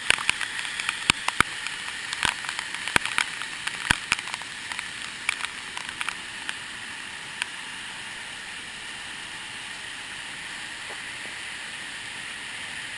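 Steady rushing hiss of falling water from a waterfall, with scattered sharp clicks over the first seven seconds or so that then die away.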